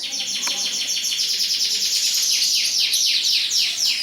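Domestic canaries singing: fast rolling trills, then a quick run of repeated falling notes from about two seconds in.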